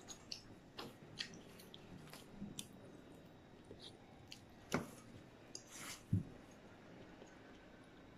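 A person eating at close range: soft chewing and wet mouth sounds, with scattered small clicks of a fork on a plate, a couple of them louder about five and six seconds in.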